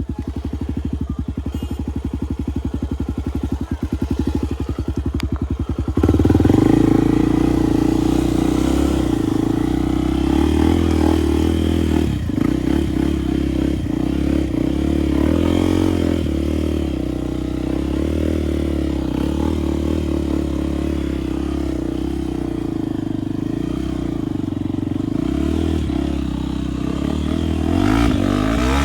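Enduro motorcycle engine running steadily at low revs, then about six seconds in it gets louder as the throttle opens and the bike rides on, its note rising and falling with the throttle.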